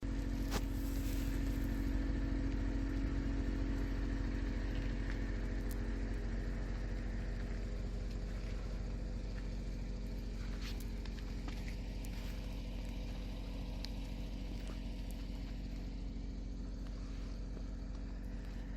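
An engine running steadily at idle, with a few light clicks, its level easing slightly over the stretch.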